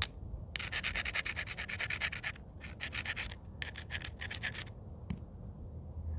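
Stone scraped rapidly against the edge of a knapped stone in three quick rasping runs, with a single click near the end. This is typical of abrading the edge of a flint biface during flintknapping.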